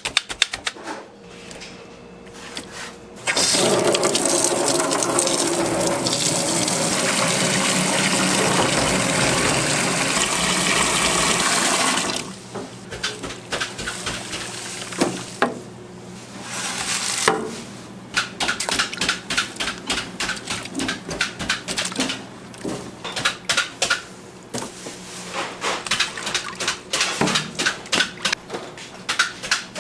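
Water running hard from a tap for about nine seconds, then stopping. Before and after it come quick runs of clicks and knocks.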